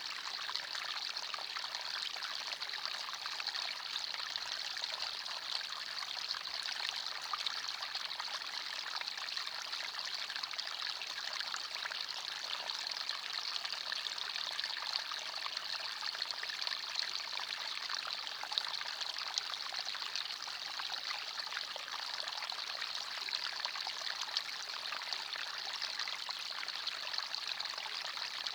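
Small forest stream running steadily over stones, a continuous bright babbling and trickling of water.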